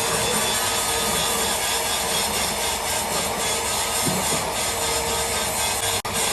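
Steady noise of factory metalworking machinery, an even rasping hiss over a faint hum, cut briefly by a sharp drop about six seconds in.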